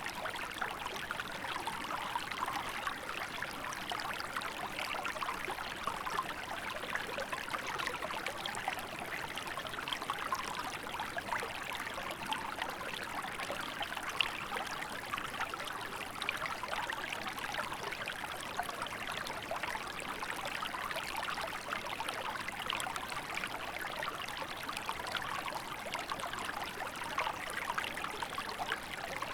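Small river flowing and babbling steadily in winter, a continuous even rush of water with fine splashing and trickling detail.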